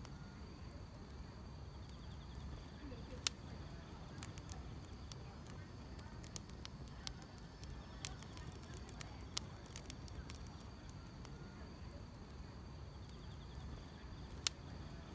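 Wood fire crackling, with scattered sharp pops over a low steady rumble; the two loudest pops come about three seconds in and near the end. Grass insects chirp faintly in the background.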